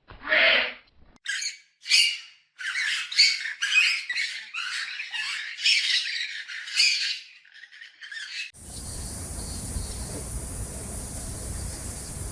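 An animal call right at the start, then a group of birds squawking and calling over one another for about seven seconds. About three-quarters of the way through it cuts suddenly to a steady hiss.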